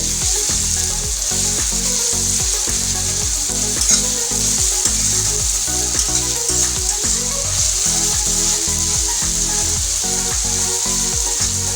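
Sliced onions with ginger-garlic paste sizzling steadily in hot oil in a kadhai as they are stirred and fried, with a few sharp knocks of the spoon against the pan, one about four seconds in.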